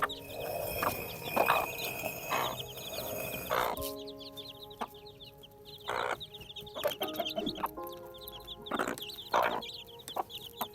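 Chickens clucking in short calls, with many quick high chick peeps throughout, over background music.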